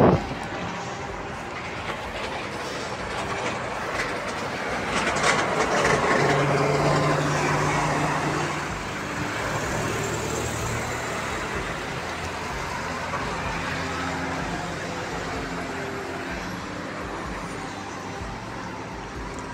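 Steady street traffic noise, swelling as a heavy vehicle with a low engine hum passes about five to eight seconds in.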